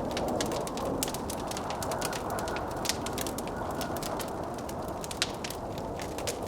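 Wood fire crackling in a fireplace, with many small snaps and a few sharper pops, over the steady rushing of blizzard wind.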